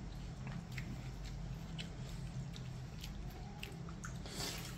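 Faint wet chewing of a mouthful of pazhankanji (soaked leftover rice), with a few small mouth clicks.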